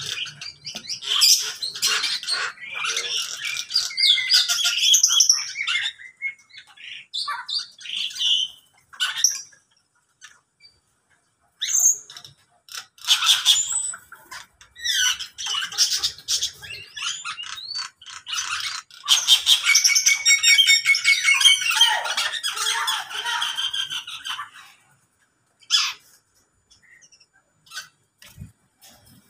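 Captive aviary birds calling, led by a pied starling singing in bouts of squawks and whistled notes, with short lulls about ten seconds in and again near the end.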